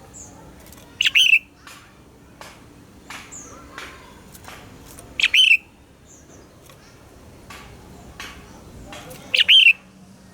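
Red-whiskered bulbul singing: three short, loud song phrases about four seconds apart, with softer chirps and clicks between them.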